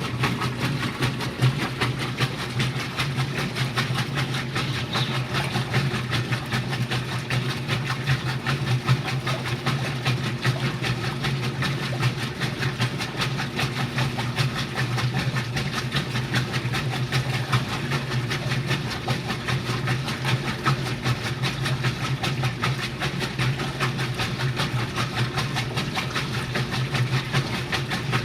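Washing machine running: a steady low motor hum with a fast, even rattle throughout.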